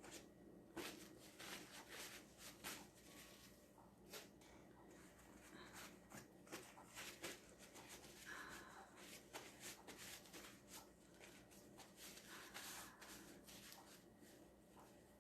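Faint handling noises: scattered light clicks, taps and rustles of small objects being moved, over a low steady room hum.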